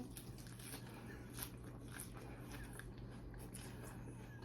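Faint chewing and mouth smacking of a mouthful of cheeseburger, a scatter of soft wet clicks.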